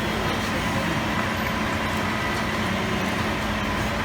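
Vehicle engine idling steadily, a constant hum.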